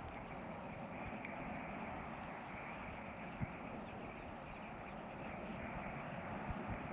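Steady outdoor background noise, an even hiss like distant traffic, with a soft low thump about three and a half seconds in and another near the end.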